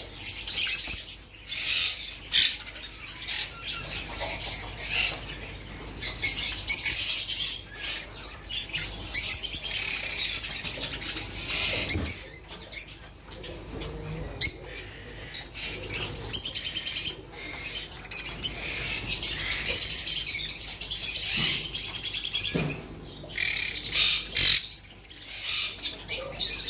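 Small parrots chattering: a dense, continuous mix of high chirps and calls from several birds, rising and falling in loudness.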